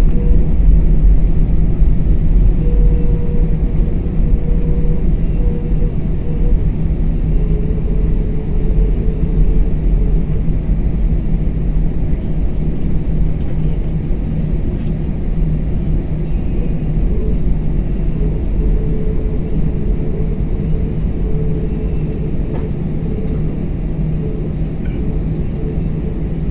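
Airliner engine noise heard inside the passenger cabin: a loud, steady rumble with a faint hum in it, growing gradually a little quieter.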